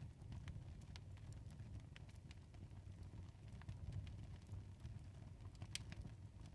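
Faint storm ambience: a low steady wind rumble with scattered light clicks.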